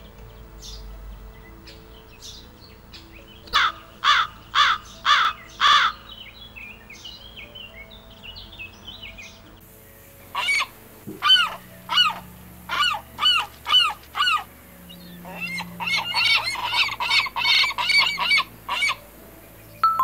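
A crow cawing: five loud harsh caws about four seconds in. From about halfway, a northern lapwing calling in a run of repeated curving calls, which crowd together near the end.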